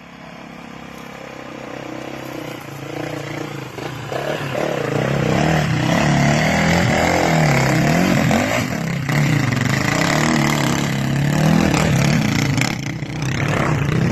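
Dirt bike engine running and revving, its pitch repeatedly rising and falling, growing louder over the first few seconds and then staying loud.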